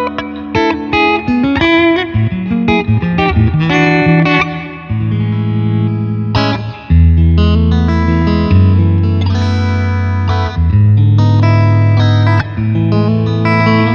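A 1993 Mexican-made Squier Stratocaster electric guitar played through an amplifier. It plays a quick run of single picked notes for the first few seconds, then held chords that change about every two seconds.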